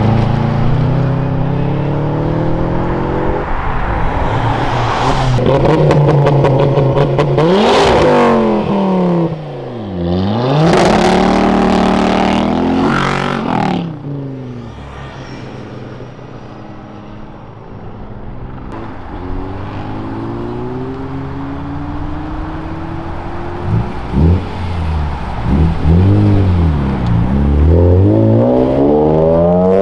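Modified cars accelerating away one after another, their engines revving up, with the pitch climbing, dropping sharply at a gear change and climbing again. There is a quieter spell in the middle, then another car pulls away hard with a couple of sudden loud blips.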